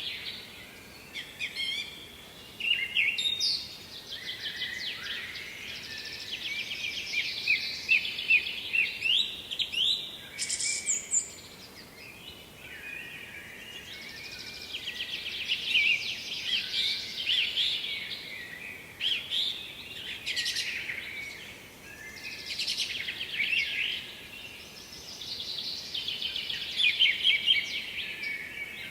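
Songbirds singing: long runs of high, rapid trills and chirps, broken by short pauses every few seconds.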